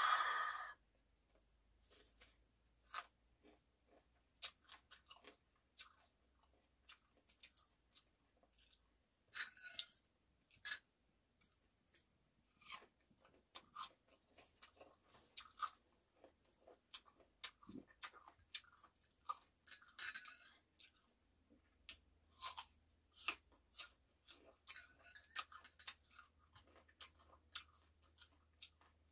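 Close-miked chewing of persimmon pieces: scattered crisp bites, wet mouth clicks and smacks. A short loud vocal exclamation sounds right at the start.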